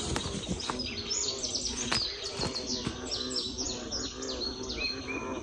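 Birds calling: many short, high chirps that fall in pitch, repeated and overlapping.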